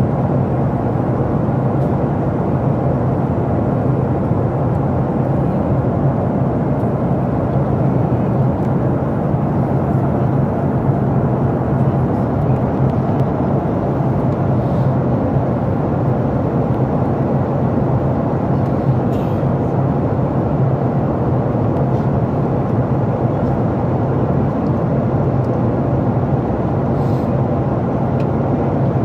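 Steady drone inside the cabin of a Boeing 737 MAX 8 in flight: engine and airflow noise, unchanging, with a strong low hum.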